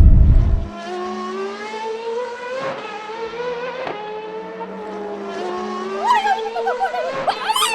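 A made-up engine sound for a toy truck: a steady, humming tone that drifts slowly in pitch, with a couple of clicks. It follows a loud low rumble that cuts off within the first second. Toward the end, wavering, squeaky rising chirps join it.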